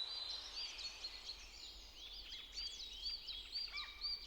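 Faint birdsong: a rapid series of short, high chirps repeating several times a second.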